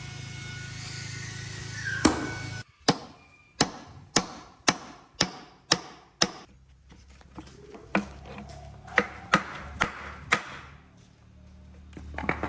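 Hammer blows: a loud single strike, then a run of about eight evenly spaced blows at roughly two a second, then a few more irregular ones. Before the run, a steady hum cuts off suddenly.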